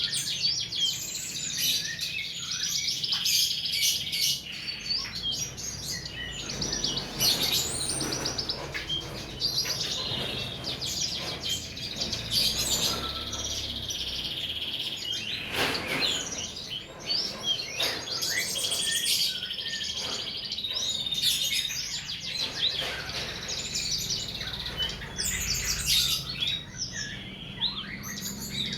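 Several songbirds calling at once: a dense mix of fast trills, chirps and short whistles, overlapping without pause.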